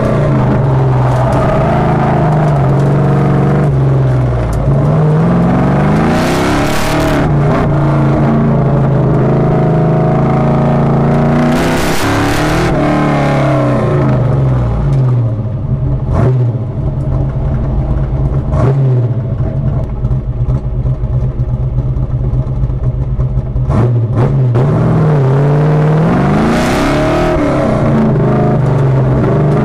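1963 Chevy Nova's engine pulling hard on an autocross run, its pitch climbing and dropping again and again as the throttle is applied and lifted. A few sharp cracks come through in the middle, where the engine note holds steadier.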